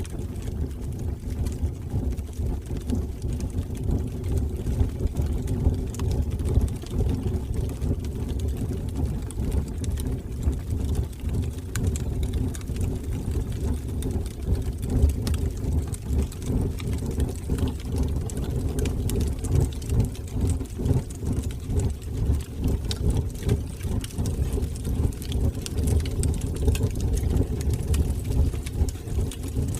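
Wood fire burning in a fireplace: a steady low rush of flames with frequent small crackles and pops throughout.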